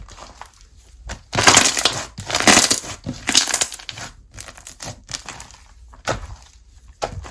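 Slime being squeezed and pressed by hand, crackling and crunching in several dense bursts over about two and a half seconds, with single sharp pops at the start and near the end.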